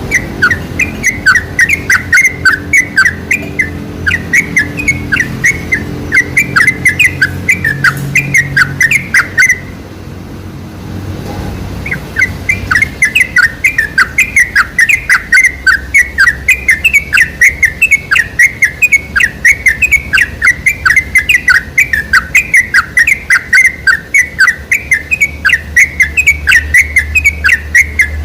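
Yellow-vented bulbul (trucukan) song: fast runs of short, bubbly chattering notes that break off for about two seconds near the middle, then pick up again. A low hum sits under the first half.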